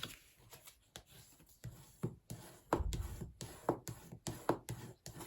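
Cardstock being folded and burnished along the crease: a series of short rubbing strokes, with a soft low thump about three seconds in.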